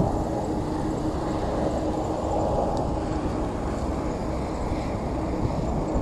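Jet airliner passing low overhead, a steady engine rumble with a held hum that fades after about three seconds, under strong wind on the microphone.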